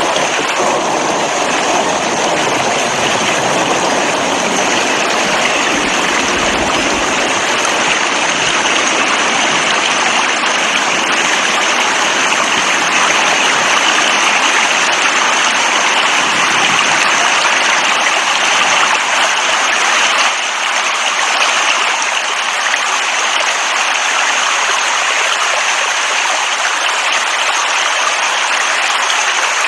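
Steady heavy rain: a continuous, even rush of falling water with no let-up.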